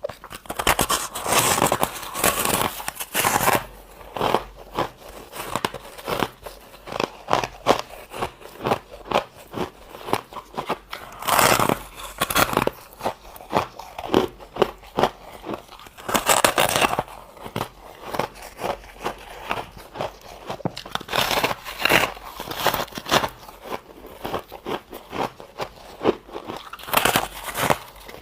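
A person biting and chewing soft, powdery white freezer-frost ice, close up: rapid crisp crunches, with a denser burst of biting about every five seconds.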